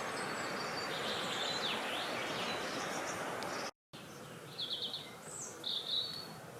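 Wind blowing steadily with songbirds chirping over it. A little over halfway through the sound cuts out for an instant and comes back quieter, with a few short trills and chirps standing out clearly.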